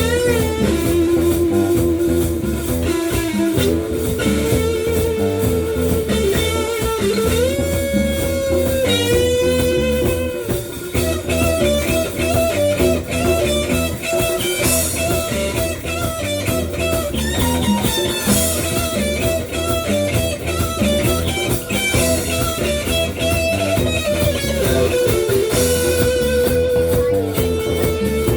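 A band playing instrumental blues-rock: an electric lead guitar holds long, bent and wavering notes over bass and drums.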